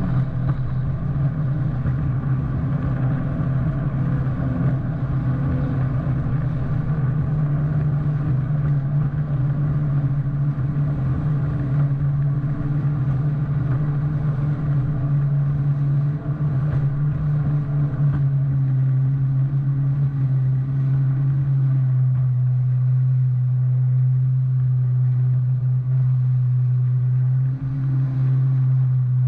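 2019 Yamaha FX-SVHO WaveRunner's supercharged four-cylinder engine running at a steady speed, with a loud, even drone over a rushing of water and wind. The rushing eases about two-thirds of the way through while the engine drone holds.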